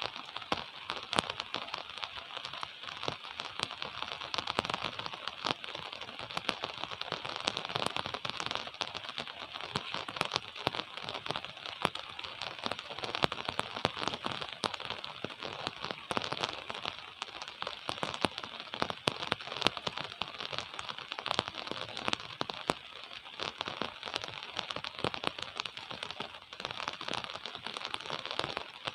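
Steady gentle rain: a dense patter of drops with many small, sharp ticks.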